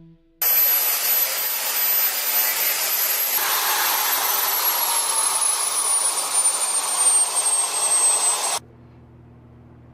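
Loud steady rush of air from a turbine, with a high whine that falls slowly in pitch from about three seconds in. It cuts off suddenly near the end, leaving a low hum.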